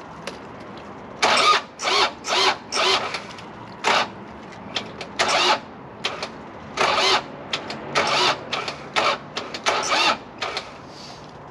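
Takeuchi excavator's starter motor bumped over and over in short bursts of about half a second each, with irregular pauses between them. The engine does not catch, and the battery is running down.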